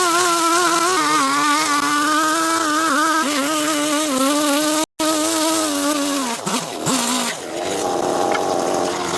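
A small engine or motor running fast with a slightly wavering pitch, cut off briefly once; near the end the pitch drops and breaks up into noisier sound.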